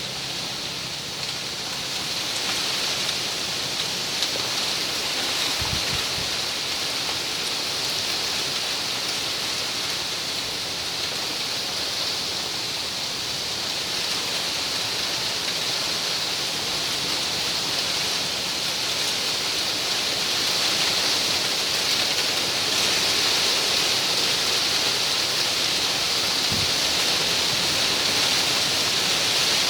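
Wind rustling through the leaves of palmyra palms: a steady hissing rustle that swells slightly in the second half.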